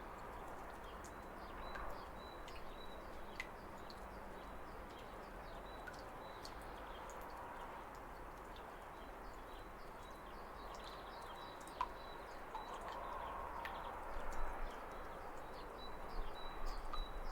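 Waterfall water rushing steadily, with small birds chirping over it and a faint high note repeating. Louder irregular knocks come in near the end.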